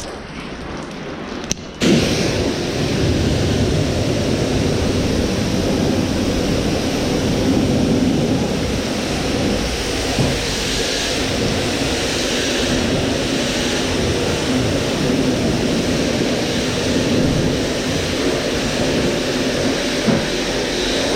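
Pressure washer spraying a high-pressure water jet onto a fiberglass truck camper shell, a steady hissing rush. It comes on abruptly about two seconds in after a quieter moment, then holds steady.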